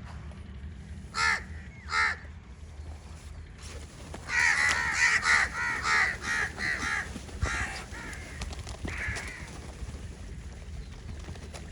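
Crows cawing: two single caws near the start, then several crows calling over one another for about three seconds, and a couple more caws after that.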